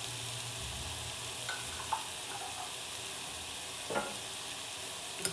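Chicken pieces, onion and spices sizzling steadily as they fry in a non-stick frying pan, with a few light clicks about 2 and 4 seconds in.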